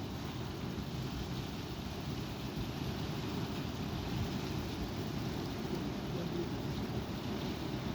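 Strong wind blowing, buffeting the microphone with a steady, gusting low rumble.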